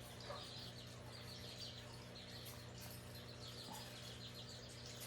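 Faint birdsong: a bird repeating short trills about once a second, over a steady low hum.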